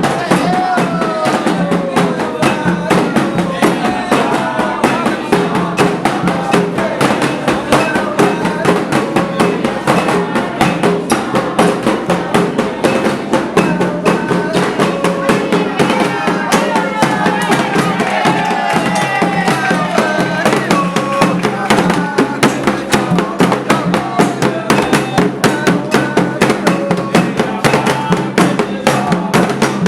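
Candomblé ritual music: atabaque hand drums beat a fast, steady rhythm under singing voices.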